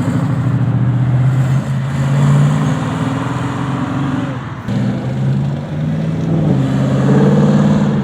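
Classic car engine running loud as the car pulls away, its pitch climbing and dropping back several times as it accelerates.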